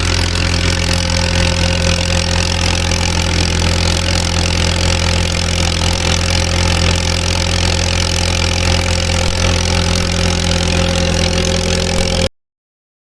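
Antique tractor engine idling steadily, then cut off abruptly about twelve seconds in.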